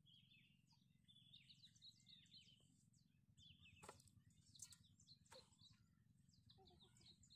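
Near silence with faint bird chirping: small birds calling in quick, repeated high phrases, plus a few faint clicks around the middle.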